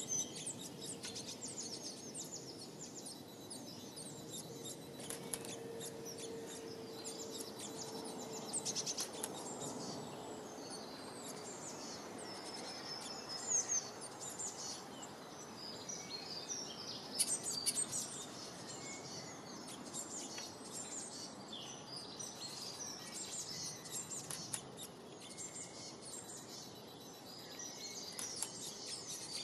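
Many small birds chirping and twittering at once, a continuous chorus of short high calls over steady outdoor background noise. A faint steady low tone sounds for a few seconds early on.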